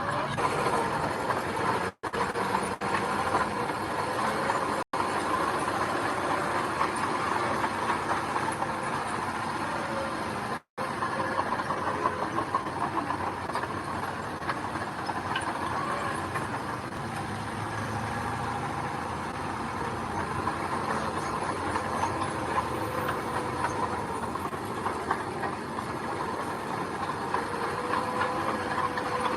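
Heavy earthmoving machinery running steadily, an engine at a constant speed with some mechanical clatter, broken by three very brief gaps.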